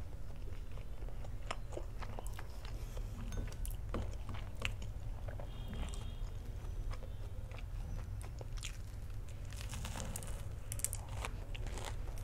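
Close-up chewing and crunching of a fried sausage coated in crispy instant-noodle batter, with scattered crisp crunches over a steady low hum.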